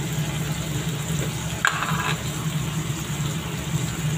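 Sliced squid frying in a stainless steel wok, sizzling steadily over a constant low hum, with a short tap about halfway through.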